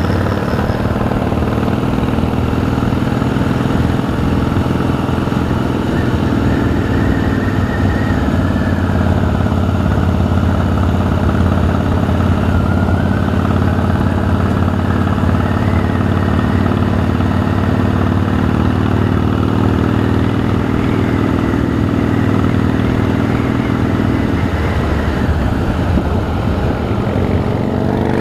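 Harley-Davidson V-twin motorcycle engine running steadily while riding, its pitch rising and falling gently with the throttle. It eases off near the end.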